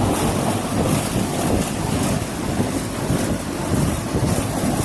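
A 1991 Bryant outdoor air-conditioning condenser unit running. It makes a steady low hum under a loud, even rush of air from its fan.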